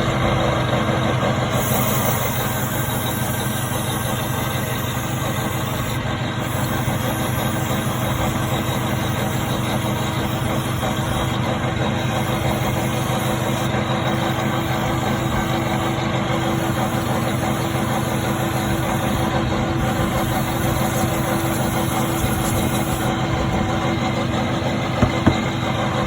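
Toyota forklift engine idling steadily. A high hiss switches on and off several times over it, and there is one short click near the end.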